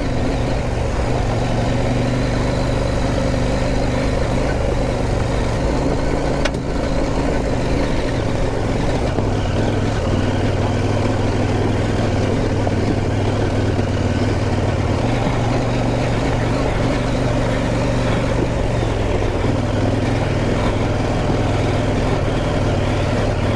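Motorcycle engine running under way, its pitch stepping up and down with the throttle, under steady wind noise on the rider's microphone. A single sharp click comes about six and a half seconds in.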